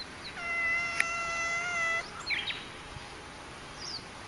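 Cat giving a long, steady-pitched yowl of about a second and a half that cuts off abruptly, with a sharp click partway through, followed by a few short, high falling chirps.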